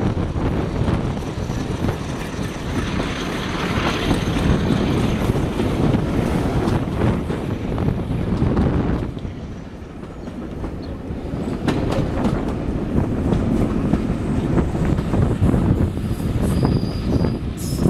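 Heritage passenger train running, heard from an open carriage window: steady wheel and track rumble with wind rush, and sharp clicks from the wheels crossing rail joints in the second half. A brief high wheel squeal comes near the end.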